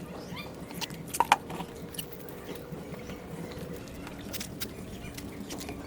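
Small scattered squeaks, clicks and drips of a wet sponge working over a car's painted body, with a couple of sharper squeaks about a second in, over a faint steady hum.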